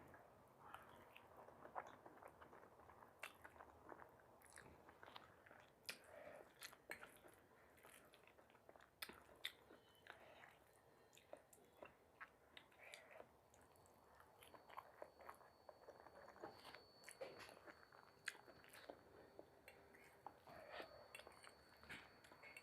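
A person chewing and biting food close up, faint, with many small irregular mouth clicks.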